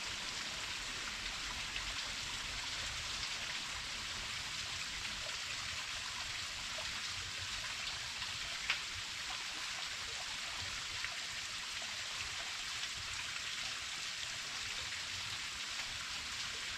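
Small waterfall splashing steadily, water falling and spattering onto rock and pool, with scattered droplet ticks and one slightly louder splash about halfway through.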